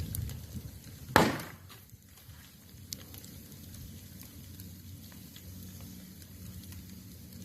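Wood campfire crackling with scattered small pops over a low rumble, and one loud sharp crack about a second in.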